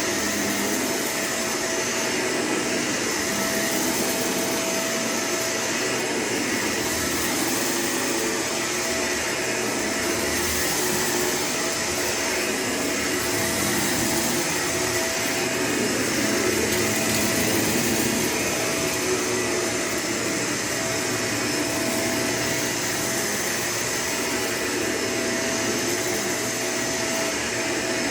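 Vacuum cleaner running steadily, its motor making a constant whine over the rush of air.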